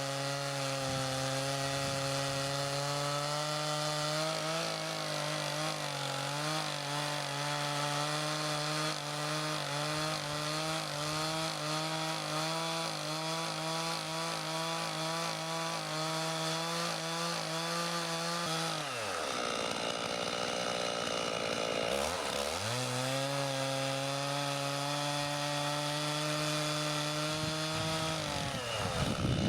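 Chainsaw running at full throttle, ripping lengthwise along the side of a maple slab. The engine drops to idle about two-thirds of the way through, revs back up a few seconds later, and dips briefly again near the end.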